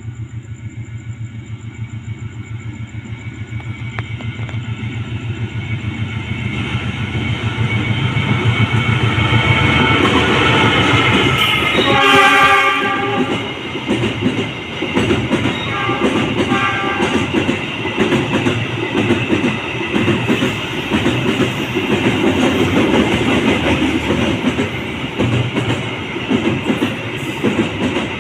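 Diesel locomotive hauling a container freight train approaching, its engine growing louder, then sounding its horn about twelve seconds in, with two short blasts a few seconds later. The container wagons then roll past with a rhythmic clickety-clack of wheels over the rail joints.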